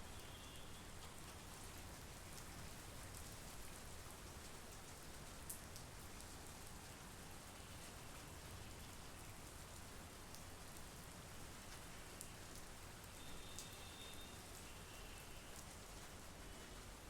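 Steady monsoon rain falling: a soft, even hiss with scattered ticks of drops, and a few faint, short high tones now and then.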